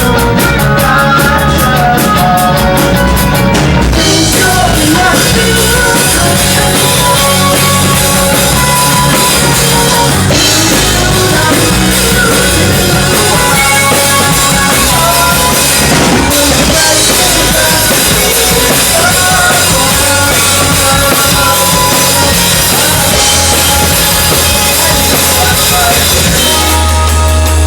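Live rock band playing loudly: a drum kit with cymbals, electric guitar and bass, with a long held low bass note coming in near the end.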